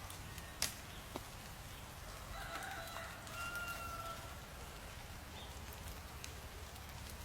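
A single held animal call, about two seconds long, roughly two and a half seconds in, preceded by a couple of sharp knocks.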